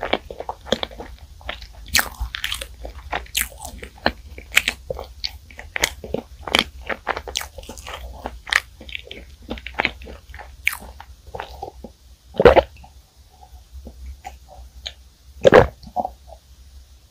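Close-miked chewing of crunchy, flaky bakery pastry: rapid small crackles and mouth clicks, thinning out after about eleven seconds. Two louder, deeper swallowing sounds come near the end.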